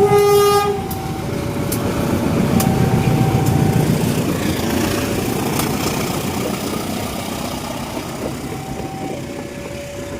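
A train passing a level crossing: a short horn blast right at the start, then a heavy low rumble of the train that swells for a few seconds and slowly fades. Throughout, the crossing's electronic alarm sounds two alternating tones.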